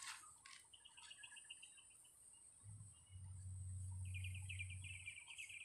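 Faint bird chirps, then a rapid trill near the end, over a steady high hiss, with a low hum rising and fading in the middle.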